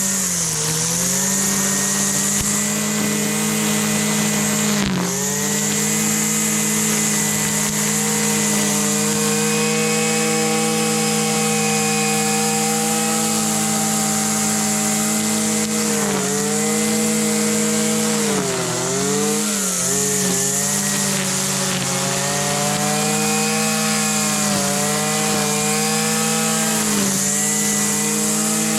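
Husqvarna 326 LD string trimmer's small two-stroke engine running steadily at speed, its pitch dipping briefly several times as the engine speed sags and recovers.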